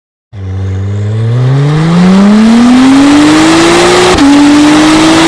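Car engine accelerating hard, its pitch climbing steadily, with a quick upshift about four seconds in, after which it climbs again.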